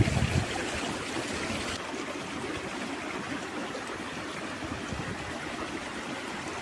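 Stream water running steadily. A brief low rumble sounds in the first half second.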